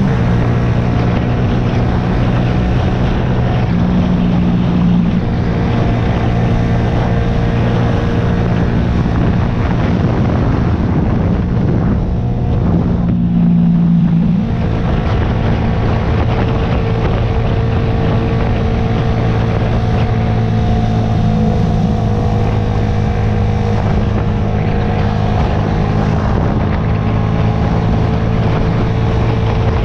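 2009 Yamaha YZF-R125's single-cylinder four-stroke engine running steadily under way, with a noisy haze over the engine note. About halfway through the note dips briefly and comes back at a slightly different pitch, as with a throttle or gear change.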